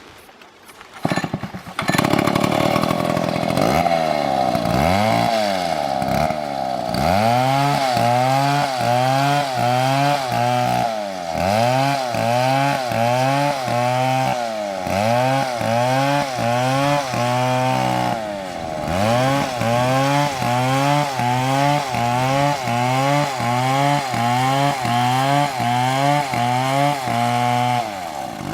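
Chainsaw cutting into a tree trunk, starting about two seconds in. The engine pitch dips and recovers over and over, about three times every two seconds, as the saw loads up in the cut, with a brief letup near the end of the middle stretch.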